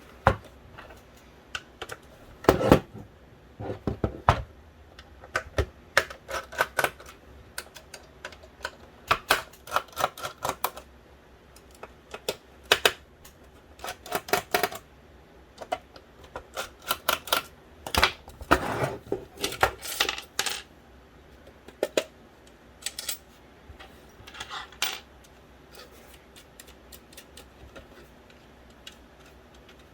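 Irregular clicks, taps and short clatters of hard plastic and metal parts: an original Xbox's Philips DVD drive being handled and taken apart.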